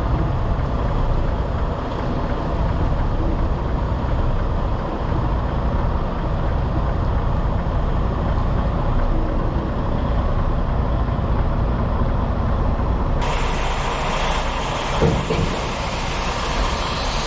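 Semi-truck diesel engine running steadily at low speed with a low rumble. About thirteen seconds in, the sound changes abruptly and becomes brighter and hissier.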